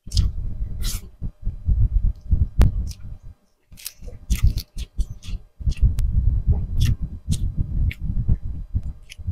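Close-miked chewing of grilled tuna jaw meat: irregular wet chewing and lip-smacking with sharp mouth clicks, pausing briefly a little over three seconds in.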